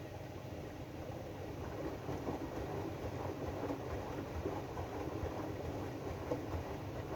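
AEG DualSense washing machine running its drum-clean cycle: a steady low rumble from the turning drum, with small irregular swells.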